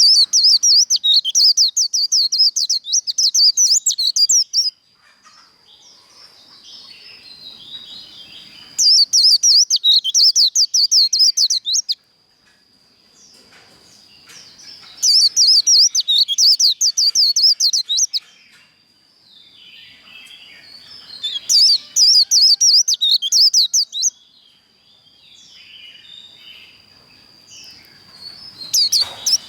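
White-eye (vành khuyên) singing its rapid high 'líu' twittering song in four bursts of about three to four seconds each. A thin, steady high whistle holds between the bursts.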